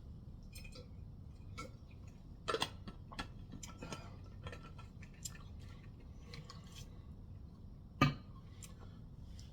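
Faint scattered clicks and taps of small objects being handled, with a sharper knock about eight seconds in, over a low steady hum.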